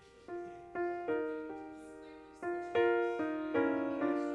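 Piano playing a slow run of single notes and chords, each struck and left to ring and fade before the next.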